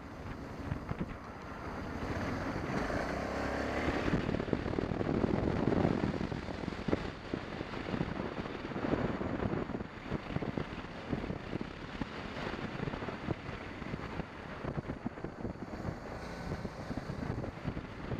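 BMW 650 GS motorcycle riding at speed, the engine running under heavy wind buffeting on the microphone. It grows louder a couple of seconds in and peaks around a third of the way through.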